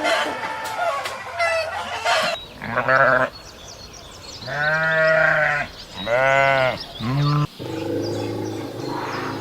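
Chickens clucking and crowing at first, then a goat bleating four times in drawn-out, wavering calls.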